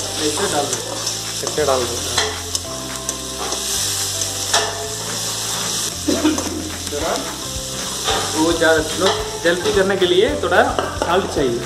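Sliced onions sizzling and frying in hot oil in a kadai, stirred and scraped with a metal spatula.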